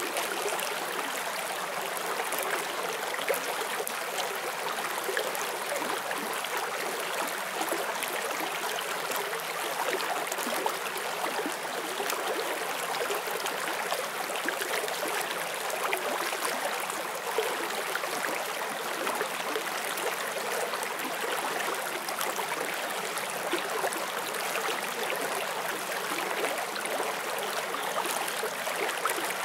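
Forest stream flowing over stones: a steady babble and trickle of water with small splashes, unchanging throughout.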